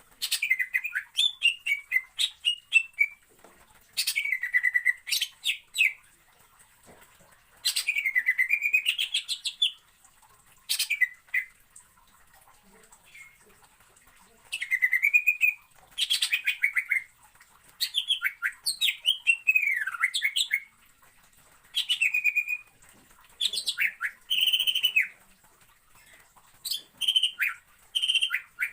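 Cucak ijo (greater green leafbird) singing in phrases of fast repeated chirps and trills, each phrase lasting one to two seconds, with short pauses between.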